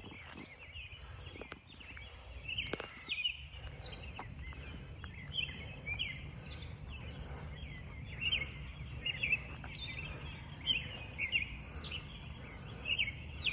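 A bird singing short chirping phrases again and again, about one every second, over a steady low background rumble.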